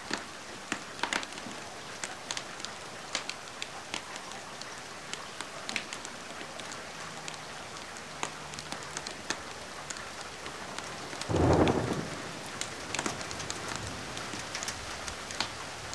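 Steady rain with sharp crackles and pops from a wood fire scattered throughout. About eleven seconds in comes a short, louder low rumble that sounds like thunder.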